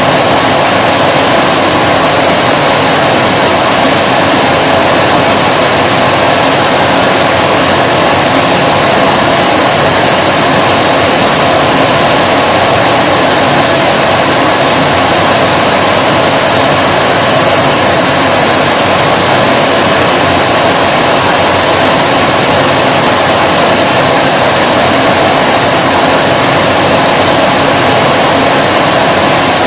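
Vacuum cleaner motor running continuously, a loud, steady rushing noise that holds the same pitch and level throughout.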